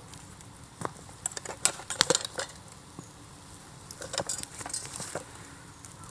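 Burning bamboo bonfire crackling, with irregular sharp pops and clicks, thickest about two seconds in and again past four seconds.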